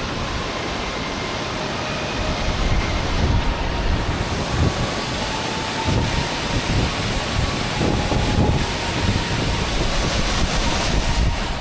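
Loud, steady rushing roar of the Pliva waterfall heard up close, with uneven low gusts of wind and spray buffeting the microphone.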